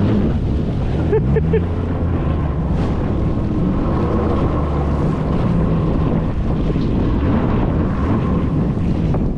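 Jet ski engine running steadily under way, with wind buffeting the microphone and water rushing past.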